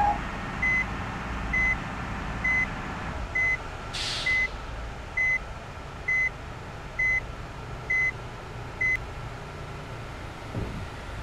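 Bus reversing alarm beeping about once a second, ten beeps that stop about nine seconds in, over the steady rumble of the engine running. A short hiss comes about four seconds in.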